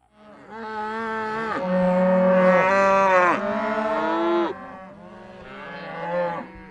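Cattle mooing: a long, loud moo of about four seconds, then a quieter second moo.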